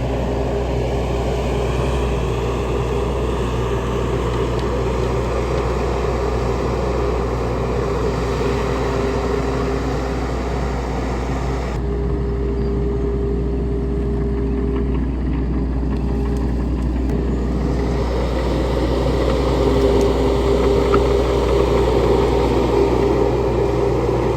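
Diesel engine of a CAT 302.4D mini excavator running steadily, with a higher whine that comes and goes over it.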